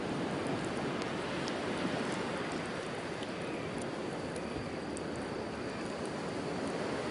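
Steady wash of sea waves on the shore, with faint scattered crackles from a wood campfire.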